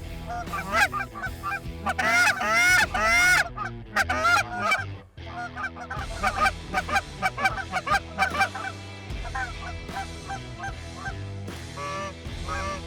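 Canada geese honking, many short overlapping honks from a flock, densest and loudest about two to three and a half seconds in.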